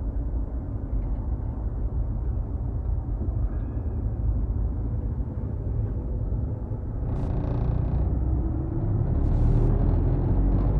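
Low rumble of a taxi driving, heard from inside the cabin, growing a little louder near the end. Two short hissing noises come about seven and nine seconds in.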